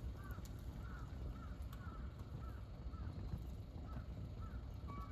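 Campfire crackling with scattered sharp pops over a steady low rumble. A bird calls repeatedly above it in short rising-and-falling notes, two or three a second.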